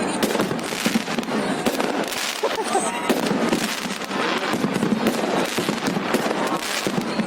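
New Year fireworks and firecrackers going off continuously, a dense run of overlapping bangs and crackles with no break.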